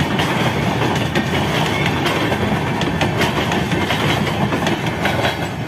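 Train rolling past at speed: steel wheels clattering over the rail joints in sharp, irregular clicks over a steady rumble of the running gear on the track.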